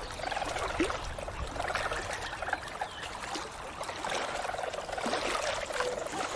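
Water trickling and splashing around otters, with short faint chirps scattered through.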